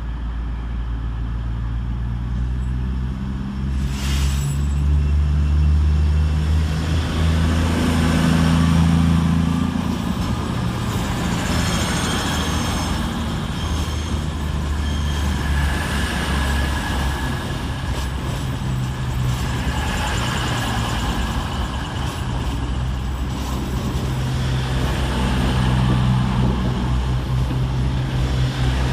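Class 220 Voyager and Class 221 Super Voyager diesel multiple units pulling out under power, their underfloor diesel engines running with a low, steady drone that swells twice. A short knock about four seconds in.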